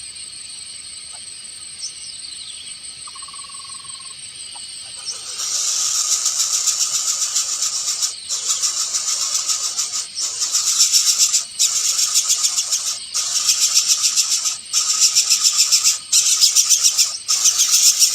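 Loud, high, rasping trills of animal calls in bursts of one to two seconds with short breaks, starting about five seconds in. Before them there is a steady high-pitched pulsing tone and a few faint single notes.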